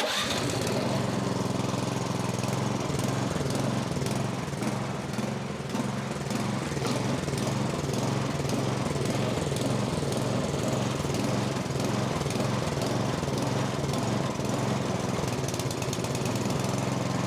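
Small single-cylinder snowblower engine running steadily on a little choke while it warms up. It runs lean, which the mechanic puts down to a plugged carburetor pilot jet starving it of fuel.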